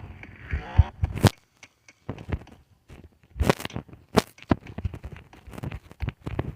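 A string of irregular sharp knocks and taps, the loudest about a second in and again around three and a half and four seconds in, with quiet gaps between.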